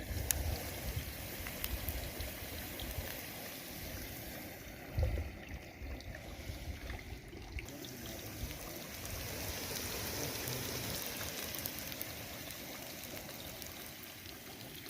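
Running water, a steady wash with a few light clicks and one low thump about five seconds in.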